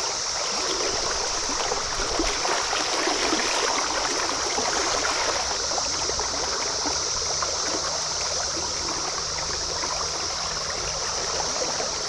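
Stream water running steadily, with a constant high chorus of periodical cicadas (Brood XIV) droning over it.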